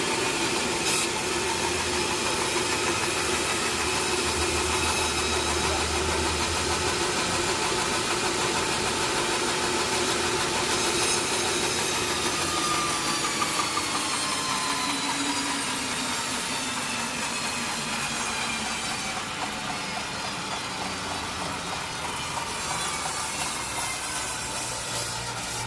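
Sawmill machinery running steadily: a motor's hum with a set of high, steady tones. About halfway through, the tones slide down in pitch and the sound eases slightly as the machine slows.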